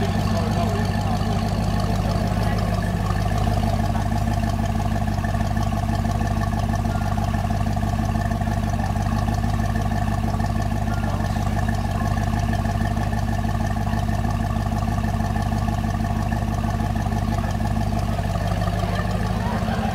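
Arash AF10 supercar engine idling steadily, heard close behind its quad exhaust tips.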